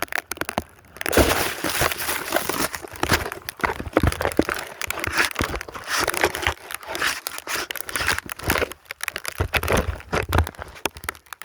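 Snow crunching close to the microphone, a rapid, uneven run of crackles and rustles.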